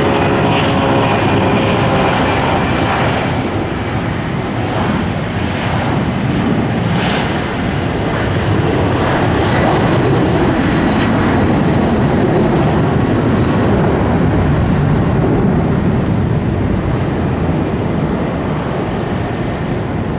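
Jet airliner engines at takeoff power: a loud, steady roar of jet exhaust, with a whine over it that fades in the first few seconds.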